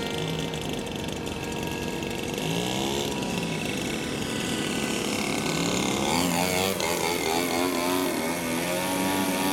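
RC model airplane engine and propeller buzzing as the P6 Hawk flies laps, its pitch rising and falling twice as it passes by.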